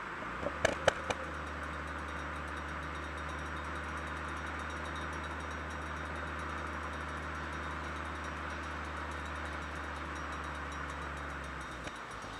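Ford Focus ST's turbocharged 2.5-litre five-cylinder engine and Milltek resonated exhaust droning steadily at constant cruising revs. A few sharp clicks come about a second in, and the drone drops away near the end.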